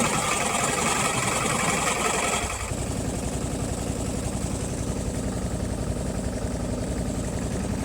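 Motorboat's engine running steadily with an even, fast pulse. Over the first three seconds or so a higher-pitched noise rides on top of it, then drops away.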